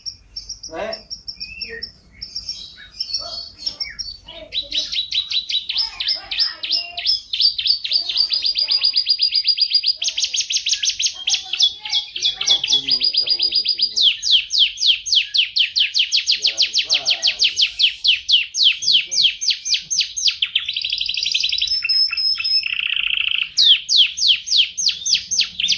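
F1 canary singing a long, nearly unbroken song of fast trills and rolls, each a quick run of repeated high notes. About two-thirds of the way through comes a short lower, buzzy rattle.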